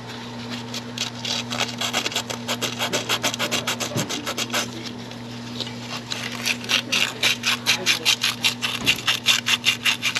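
Emery cloth rubbed back and forth on a corroded metal transmission shift shaft, polishing off rust so a new position sensor can slide on. The rhythmic scraping strokes get faster and louder in the second half, at about five strokes a second.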